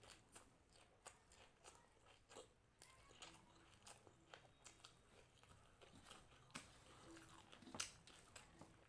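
A person chewing crunchy food: a run of soft, irregular crunches and mouth clicks, with one louder crunch near the end.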